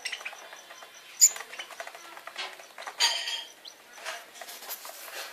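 Lovebirds chattering with quick, shrill chirps and clicks, with a sharp squeak about a second in and a louder flurry of calls around three seconds.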